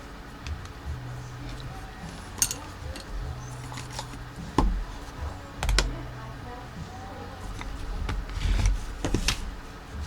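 Scattered small clicks and taps of tools and small parts being handled on a workbench during a soldering and wiring job, with a low hum that comes and goes.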